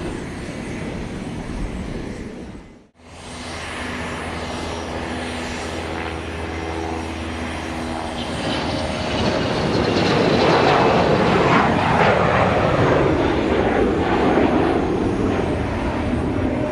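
Fixed-wing aircraft engines. A brief dropout comes about three seconds in. Then a steady engine hum with several held tones runs on and gives way to a louder rushing engine noise in the second half.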